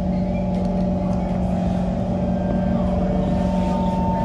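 Kawasaki C151 train's electrical hum heard from inside the car as it starts to pull out of a station, with a steady low hum and a higher tone coming in about three and a half seconds in.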